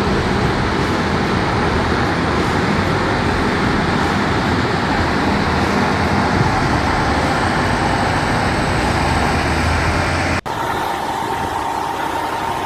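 Frick 0000 circular sawmill running, driven by its 3-cylinder Detroit diesel: a steady, dense mechanical din with a low engine hum. About ten seconds in it cuts off abruptly, and a different steady machine sound with a clear whine takes over.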